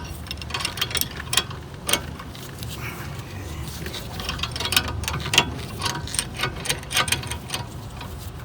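Irregular sharp metallic clicks and clinks of hand tools working a rear brake caliper bolt, some coming in quick runs.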